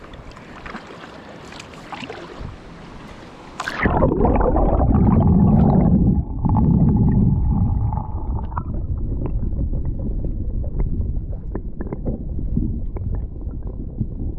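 Water splashing and lapping around a kayak with light paddle clicks. About four seconds in it turns suddenly into a loud, muffled rumble and gurgling of water with the higher sounds cut off.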